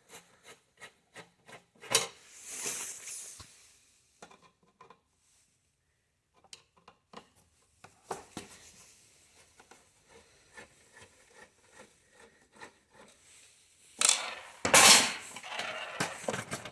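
Screws being undone from the metal side panel of an espresso machine with a screwdriver: a run of small clicks, with a louder scrape about two seconds in and a burst of loud scraping and clicking near the end.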